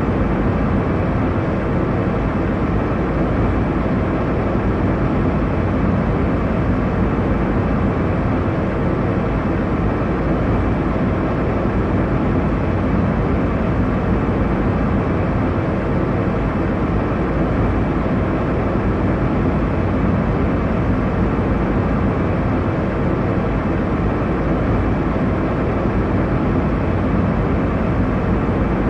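Steady airliner cabin noise in cruise: an even, unbroken rush of engine and airflow noise, deep and low in pitch.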